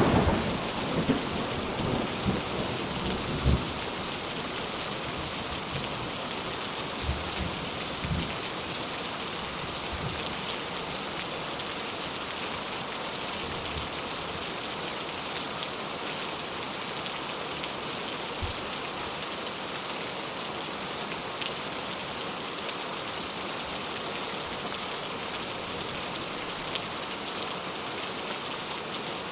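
Steady rainfall, a dense even patter of drops, with several short low thuds in the first few seconds and a few more scattered later.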